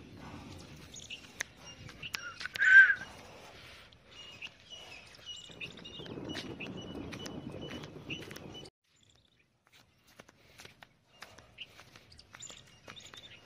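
Outdoor ambience of small birds chirping repeatedly, with one loud, short bird call about two and a half seconds in, over rustling and shuffling steps on sandy ground. The sound cuts out abruptly past the middle, then faint chirps and steps return.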